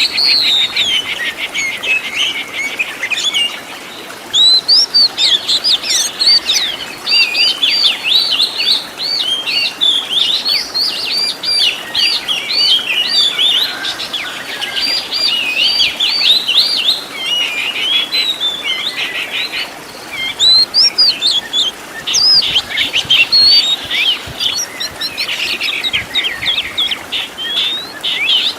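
Oriental magpie-robin (kacer) singing a long, varied song of rapid whistled phrases, trills and mimicked calls of other birds. A fast trill opens it, then after a short break about four seconds in the bird runs continuously through quick changing phrases, easing briefly about two-thirds of the way through.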